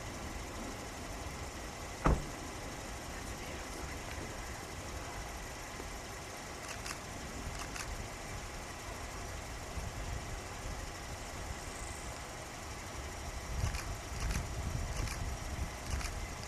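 Car engine idling under a steady hiss and low rumble that swells and grows stronger near the end. One sharp click about two seconds in, and a few fainter ticks later on.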